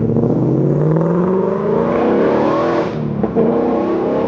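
A car engine accelerating hard: its pitch climbs steadily for about three seconds, drops suddenly, then climbs again.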